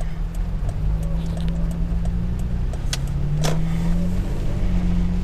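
Pickup truck driving: steady engine and road noise, with the engine note rising slowly for about two seconds midway as it speeds up. Two sharp ticks come a little past the middle.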